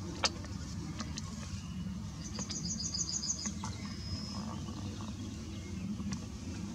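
Outdoor ambience with a steady low rumble and a few faint clicks. In the middle a bird gives a short, rapid trill of about eight high notes, followed by a brief thin whistle.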